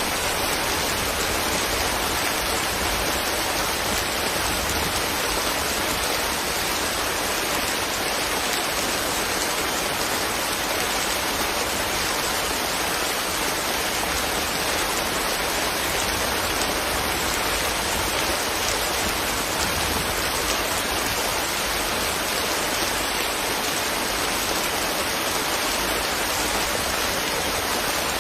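Steady rain falling, a dense even hiss of raindrops with no single drops or pauses standing out.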